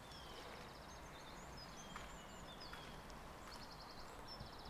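Quiet woodland ambience with small birds calling: scattered short chirps and whistles and a fast, high ticking trill that comes a few times.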